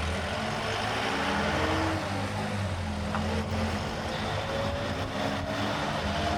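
A car on the move: steady engine hum and road noise, with a few slowly rising and falling engine tones.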